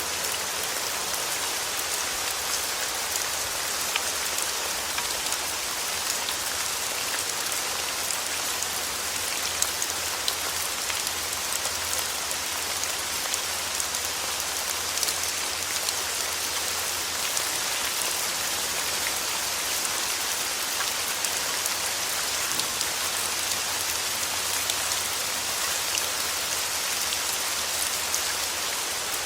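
Steady rainfall: a continuous even hiss of rain, dotted with many small drop ticks.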